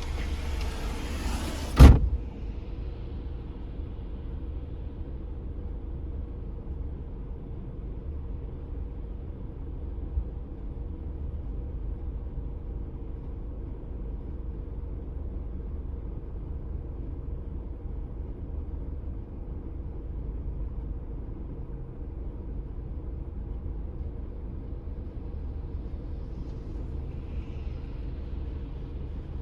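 Car driving, heard from inside the cabin: a steady low road and engine rumble with a faint constant hum. About two seconds in, a single sharp knock cuts off a high hiss, and the cabin sound is steadier and duller after it.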